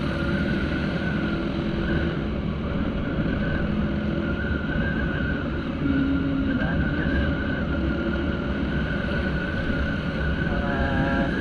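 Yamaha Aerox scooter under way: a steady engine drone and road rumble mixed with wind on the rider's microphone, with a wavering high tone over it.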